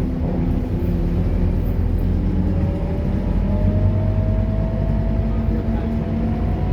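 Scania K230UB diesel city bus running steadily, with a whine that rises slowly in pitch from about halfway as it gathers speed.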